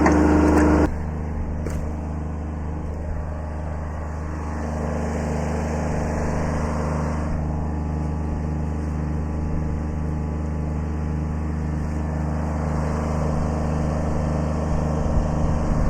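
Kubota B7100 compact tractor's three-cylinder diesel engine running steadily. It is louder for the first second, then settles to a lower, even note.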